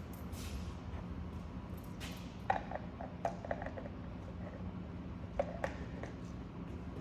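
A few light clicks and taps of small objects being handled, in two clusters, over a steady low hum.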